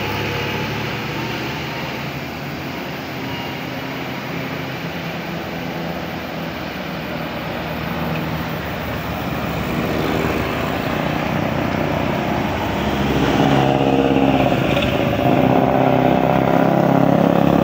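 Road traffic passing, with vehicle engines running continuously. One engine grows louder and closer over the last few seconds.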